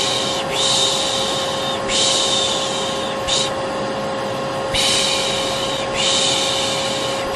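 Vacuum cleaner motor running steadily with a constant hum, overlaid by a person's soothing 'shh' shushing. The shushes come in a repeating pattern of three long shushes and a short one, starting over about every four seconds.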